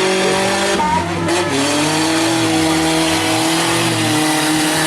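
Engines of compact trucks and vans in a demolition derby running hard together, their pitch gliding up and down as they rev.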